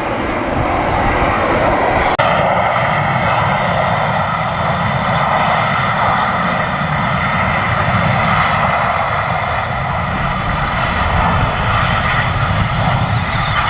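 Sea Harrier jet, its Rolls-Royce Pegasus engine giving a loud, steady roar with a whine while it hovers. There is a sudden click and a brief dip about two seconds in.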